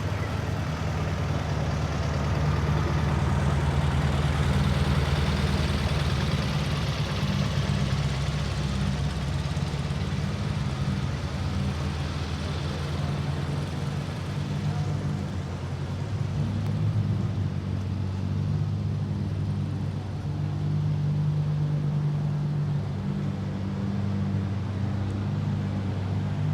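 Motor vehicle engine running, a low steady rumble that swells and eases slowly.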